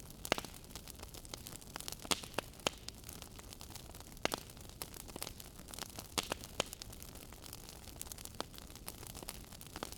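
Wood fire in a fireplace crackling, with irregular sharp pops and snaps over a steady low hiss; a few louder pops stand out, about four seconds in and around six seconds in.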